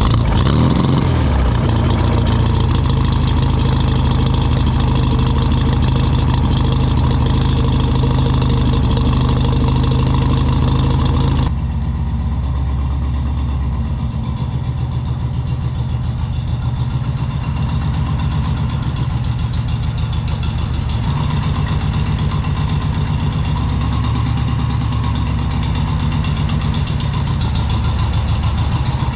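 Air-cooled flat-four engine of a Volkswagen Beetle, uncovered with its deck lid off, running just after starting. It runs high at first, then drops in level about eleven seconds in and settles into a lower, pulsing idle.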